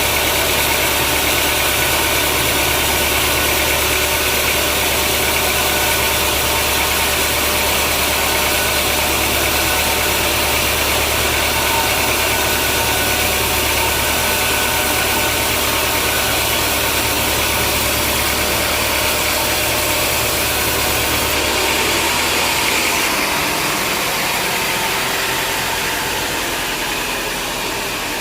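Sawmill machinery running steadily with a loud, even mechanical noise and a low hum. The hum cuts out about 22 seconds in, and the noise drops a little after that.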